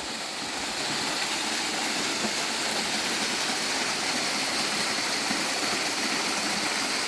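Small waterfall on a river, water rushing and splashing in a steady, even hiss that grows a little louder about a second in.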